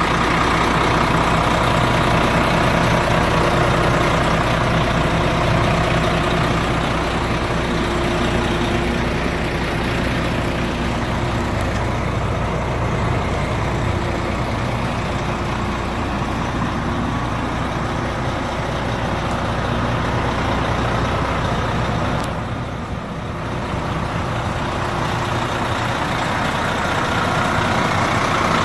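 Diesel engine of a Renault Premium Lander 450 tractor unit running steadily, with a brief dip in level about 23 seconds in.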